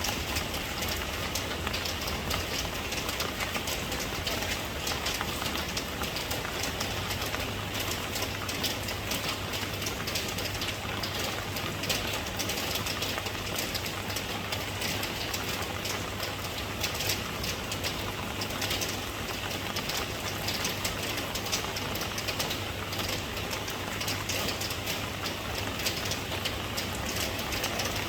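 Steady rain falling, a dense even hiss of drops with many small ticks of individual drops, over a low steady rumble.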